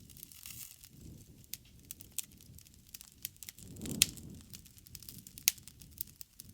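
Wood bonfire crackling: frequent sharp pops and snaps over a low rush of flame. The rush swells around the middle, with the loudest pop about four seconds in and another sharp pop near the end.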